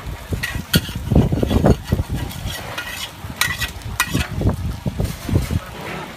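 Food being stirred and scraped in a hot frying pan with a metal utensil, with irregular clinks and knocks over a steady sizzle.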